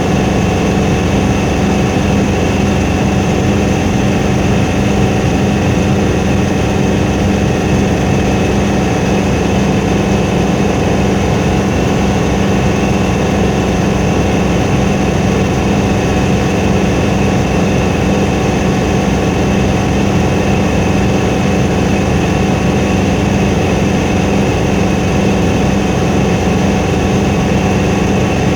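Helicopter running steadily: a loud, even drone that holds its pitch throughout.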